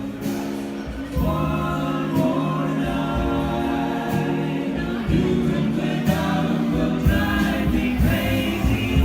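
Live band music with several voices singing together in harmony over instrumental accompaniment.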